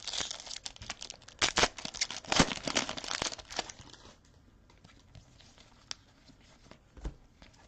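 Plastic wrapper of a trading-card fat pack being torn open and crinkled, a dense crackling for about four seconds, then only a few soft clicks as the cards are handled.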